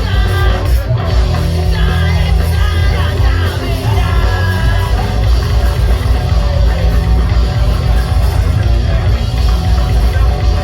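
Loud live rock band playing in a punk or metal style, with yelled vocals over continuous guitar, bass and drums.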